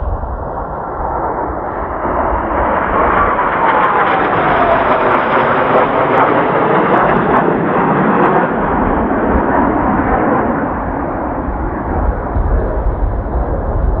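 Kawasaki T-4 jet trainers of the Blue Impulse team flying past, their jet roar swelling to a peak and then easing, with a whine that falls in pitch as they go by. Strong wind buffets the microphone with a low rumble, most at the start and in the latter half.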